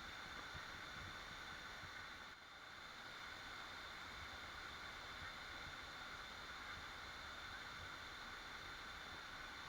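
Waterfall: a steady rush of falling water, even throughout apart from a brief dip in level about two seconds in.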